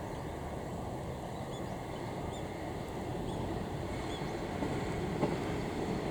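Low, steady rumble of a KiHa 110 series diesel railcar train, growing gradually louder, with a few faint high chirps over it.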